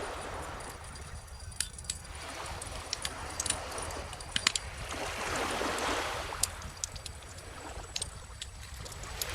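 Wood fire crackling with frequent sharp pops, over calm ocean waves washing in and drawing back; one wave swells to its loudest about six seconds in and another begins near the end.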